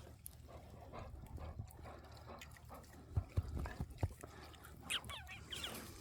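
A dog close to the microphone: a few soft bumps about three to four seconds in, then a few short, high, squeaky sounds near the end.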